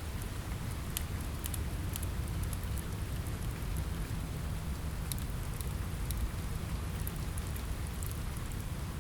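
Steady rain on a window mixed with a crackling wood fire: a continuous hiss over a low rumble, with scattered sharp crackles.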